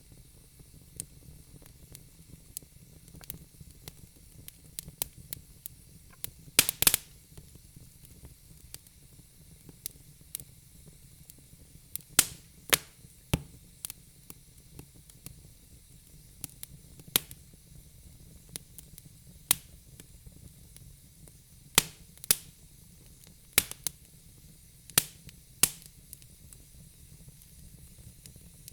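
Wood logs crackling in a fireplace: irregular sharp pops and snaps over a faint steady low rumble of the flames, with a burst of loud pops about seven seconds in.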